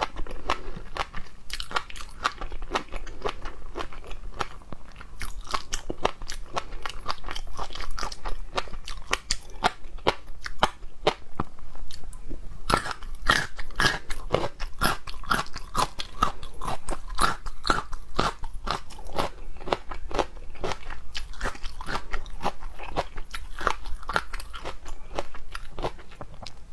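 Close-miked chewing and biting of seafood, with many sharp crunches in quick succession throughout, busiest past the middle.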